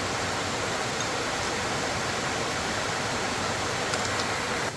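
Steady, even rushing noise of water, with a couple of faint light clicks near the end.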